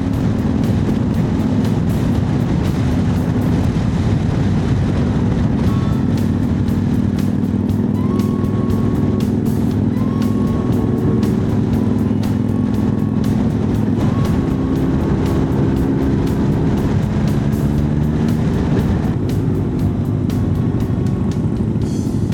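Honda CB1100 air-cooled inline-four motorcycle engine running steadily on the move, with wind rushing over the microphone.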